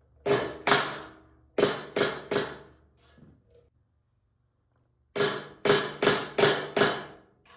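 A new exhaust pipe on a Honda CB750 Four being tapped into its port to seat it: about ten sharp knocks with a short ring, in groups of two, three and then five.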